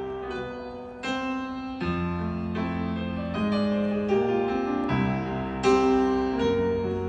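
Live piano playing: struck notes and chords in a slow instrumental passage between sung lines of a song, played through a concert sound system.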